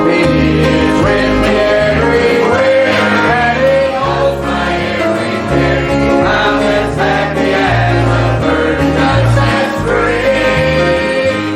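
Music: a gospel song sung over acoustic string-band accompaniment in a country or bluegrass style, with a steady bass line.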